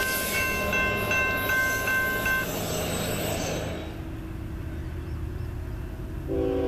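Low rumble of a train moving away while a grade-crossing bell rings with evenly spaced dings, stopping about two and a half seconds in. Near the end a train's multi-note air horn starts sounding.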